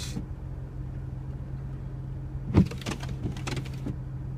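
Car interior drone from the engine and road, a steady low hum, with a sharp knock about two and a half seconds in followed by a few lighter knocks.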